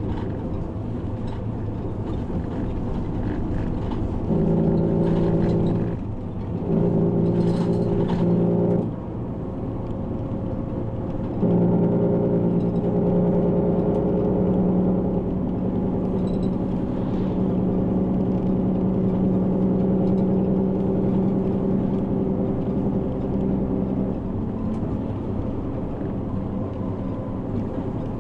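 Route bus engine and running noise heard from inside the cabin. The engine note pulls harder in stretches: briefly around four to nine seconds in, with a short dip between, then steadily from about eleven to twenty-four seconds in, before easing back to a lower rumble.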